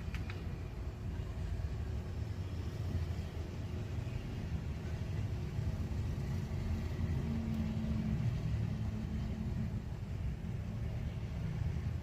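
Forklift engine running steadily with a low rumble.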